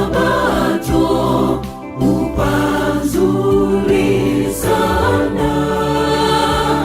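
Choral gospel music: a choir singing over instrumental accompaniment.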